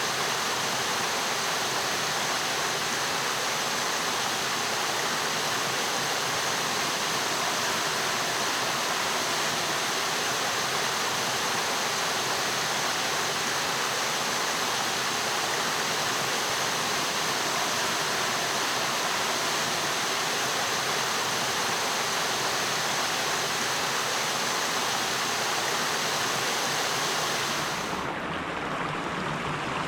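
Steady rush of flowing stream water over rocks. Near the end it changes abruptly to a duller, softer water sound, as the recording switches to another stretch of stream.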